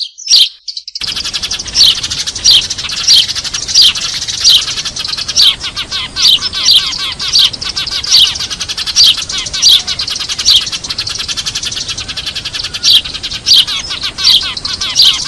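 A flock of Eurasian tree sparrows chirping noisily. Loud short falling chirps come about one and a half times a second over a dense, fast chatter of many other chirps. This is a lure call played to draw sparrows in, and it cuts out for a moment just after the start.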